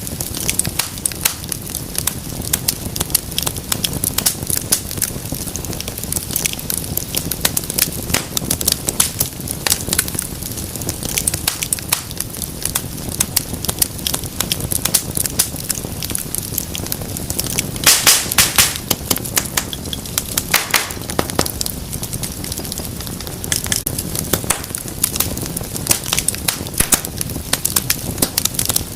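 Wood fire crackling steadily, with dense, irregular snaps and pops over a low rumble of flames, and a brief cluster of louder pops about eighteen seconds in.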